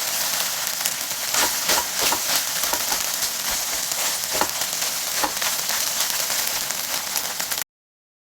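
Food frying in hot oil in a pan, a steady sizzle with scattered clicks and knocks of a utensil stirring against the pan. It cuts off suddenly near the end.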